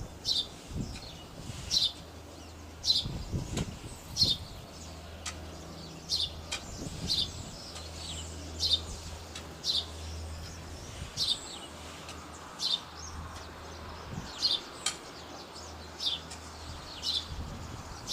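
A bird chirping, repeating one short, high, falling note about once a second, over a faint, steady low hum.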